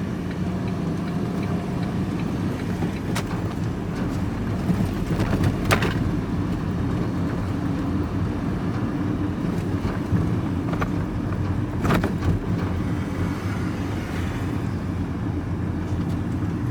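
A vehicle driving along: a steady engine hum with road noise, and a few short knocks or rattles.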